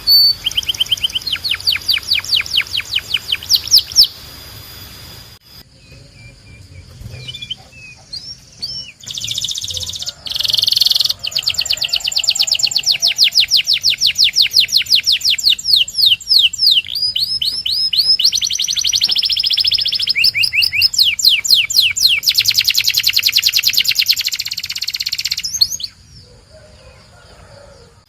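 Domestic canary singing in fast rolling trills of rapidly repeated notes. After about four seconds the song breaks off to scattered notes, then long trill runs resume and stop shortly before the end.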